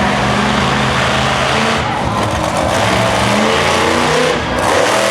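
Monster truck engine running loud under heavy throttle, its pitch steady at first, then rising and falling as it revs from about two seconds in.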